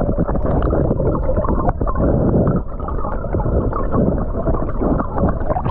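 Loud, muffled rumbling on the microphone itself, with many small crackles and scrapes. It cuts in and out abruptly.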